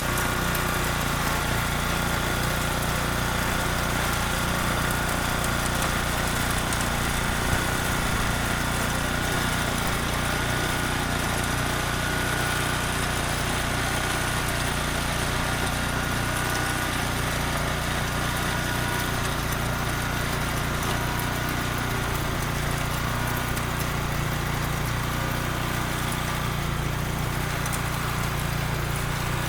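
Small engine of a mini tractor cultivator running steadily at an even speed, with a faint steady whine over the engine note.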